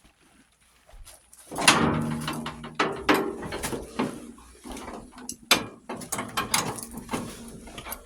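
Metal parts and hand tools clanking, rattling and scraping as a lawn tractor is being taken apart, starting after a short quiet spell with a string of sharp knocks and clicks.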